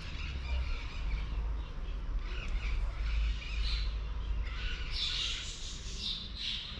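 Birds calling and chirping, the calls growing louder and busier about five seconds in, over a steady low rumble.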